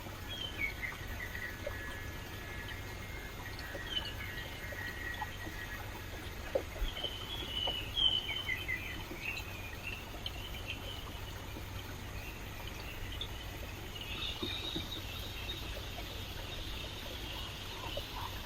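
Steady rush of a flowing stream, with birds chirping over it: scattered short calls, a busier cluster about eight seconds in and a run of high calls near the end.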